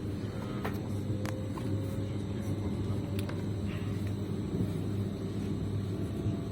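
Train running on rails: a steady low rumble of wheels and carriage, with a few sharp clicks and a faint rising whine.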